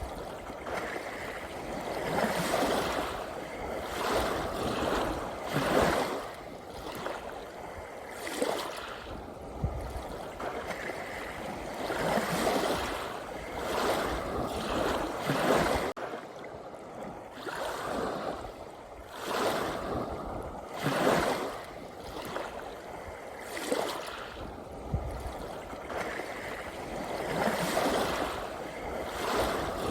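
Small sea waves lapping and washing in, a rush of water that swells and falls away every couple of seconds at an uneven pace.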